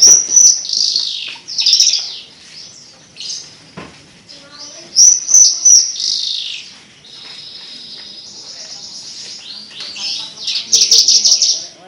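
Javan bush lark (branjangan) singing a fast, varied song of chirps and trills. There are loud bursts near the start, around five seconds in and near the end, with a steadier, even trill in between.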